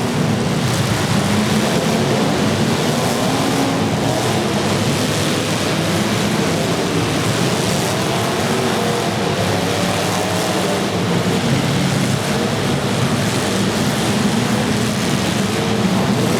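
Demolition derby car engines revving together, a steady loud din with pitches wavering up and down as the cars accelerate and slow.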